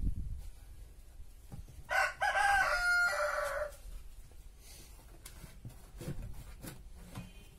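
A rooster crows once, a loud call of about a second and a half with a drawn-out ending, followed later by a few faint knocks.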